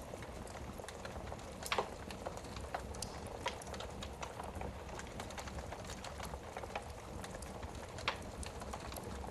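Wood fire in a fireplace crackling with irregular small pops, over a steady low rumble; sharper snaps come about two seconds in and again near the end.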